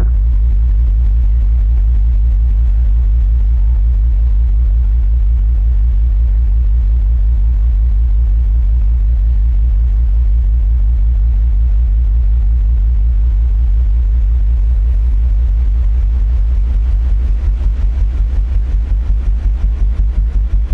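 Sound system's bass speakers playing a loud, steady deep bass tone during a sound check. Near the end it starts to pulse about three times a second.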